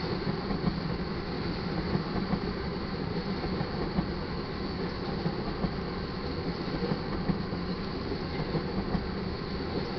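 Tank cars of a crude oil train rolling past on the rails: a steady rumble of wheels on track, broken by frequent short, sharp clacks.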